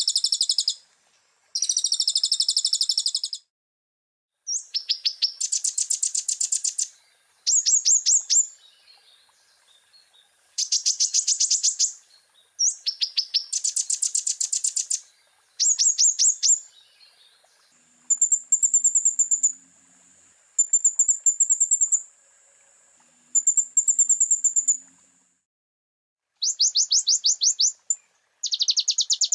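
Kolibri ninja (brown-throated sunbird) singing: repeated bursts of rapid, very high-pitched trills a second or two long, separated by short pauses, some over a thin steady high whistle.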